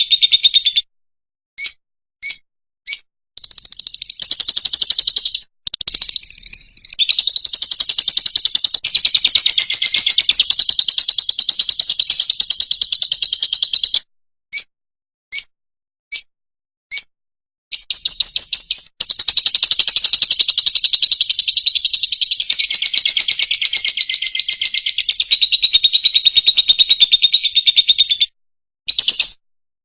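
Fischer's lovebird singing: long runs of rapid, high twittering chatter. Twice, near the start and about halfway, the chatter breaks off into a few short, separate chirps.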